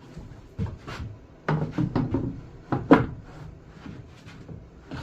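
Wood being handled at a table saw: a string of irregular knocks, with short scraping and sliding sounds between them, the loudest knock about three seconds in.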